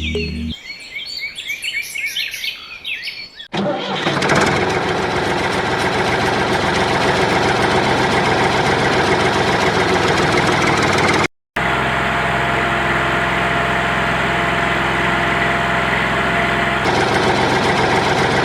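Bird chirps, then about three and a half seconds in a small motor starts and runs steadily and loudly, cutting out for a split second near the middle and carrying straight on.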